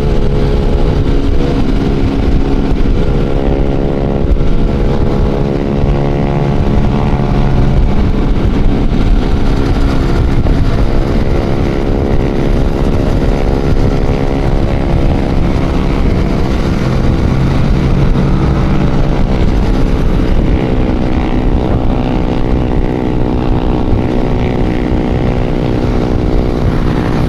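Motorcycle engine and exhaust running steadily at riding speed, the pitch drifting slightly up and down, over a heavy low rumble from wind and road.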